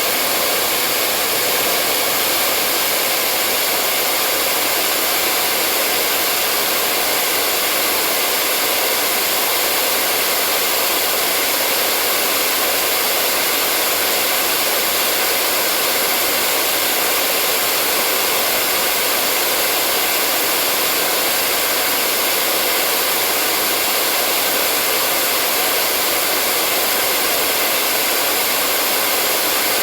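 Hair dryer running steadily: a continuous, even whoosh of blown air and motor with no change in speed.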